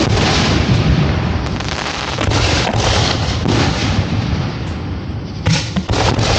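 Fireworks show being fired at close range: a dense, continuous run of booms and bursts. It eases briefly about five seconds in, then several sharp reports follow.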